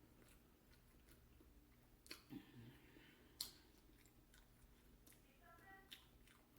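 Faint chewing of fried chicken, with a few sharp clicks spread through it.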